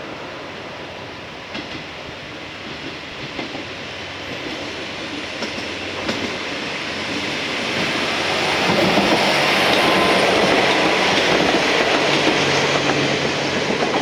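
Electric train set B10 of the Okayama depot running along the rails, with scattered wheel clicks over rail joints; the running noise swells about eight seconds in as the train draws nearer.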